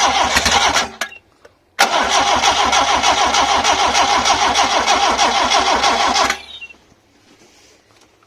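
Starter motor cranking a freshly rebuilt Toyota 2E 1.3 four-cylinder engine in two goes, a short burst of about a second and then about four and a half seconds, stopping abruptly without the engine catching. It has been primed with starting fluid and the fuel has not yet come through to the twin Weber carbs.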